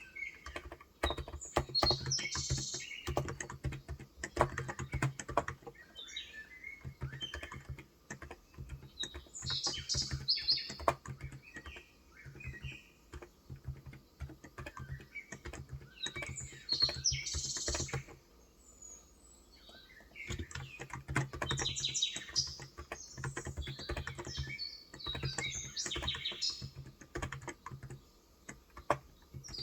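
Typing on a Cox Endeavor electrostatic capacitive (contactless) tenkeyless keyboard with 35 g switches: runs of quick keystrokes with a brief pause a little past halfway. Birds chirp in the background.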